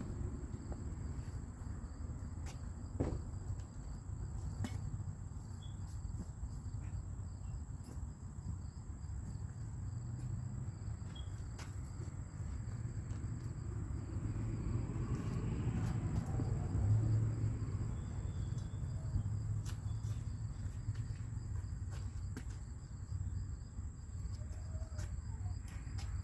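Steady high-pitched insect trilling, typical of crickets, over a low rumble that swells briefly about two-thirds of the way through, with a few faint knocks.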